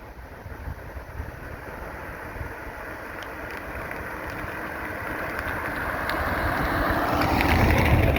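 A vehicle passing by on a nearby road: a steady rush of road noise that grows gradually louder, peaking near the end.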